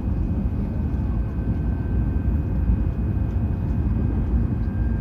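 Hokuriku Shinkansen train running at speed, heard from inside the passenger car: a steady low rumble with faint, even whining tones above it.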